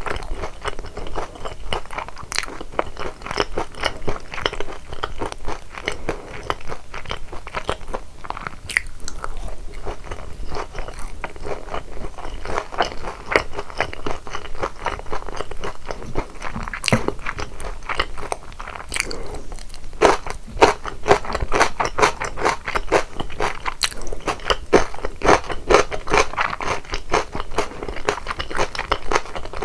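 Close-miked eating sounds of boneless sauced Korean fried chicken: crispy coated pieces bitten and chewed with continuous crunching and crackling, a little louder in the last third.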